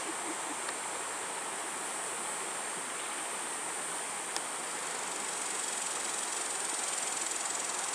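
Steady evening insect chorus, a continuous high-pitched shrill that swells slightly toward the end, over a soft even hiss.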